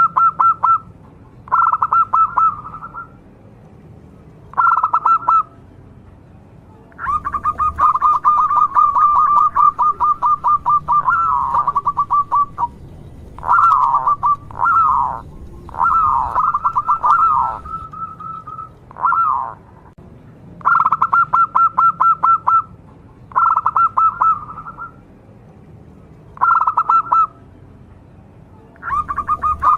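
Zebra dove (local perkutut) cooing in short bursts of rapid pulsed notes, repeated every couple of seconds, with a longer, more varied run of calls in the middle.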